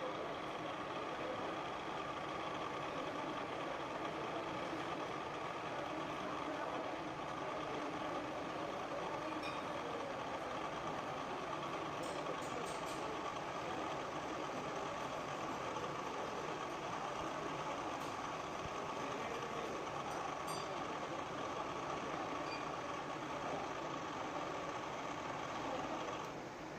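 Metal lathe running steadily with a constant whine that stops shortly before the end.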